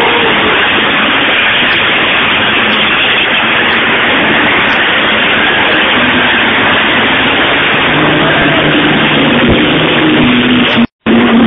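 Racing engines running loud at a circuit, their pitch rising and falling as the vehicles rev and shift, with the sound cutting out for a split second near the end.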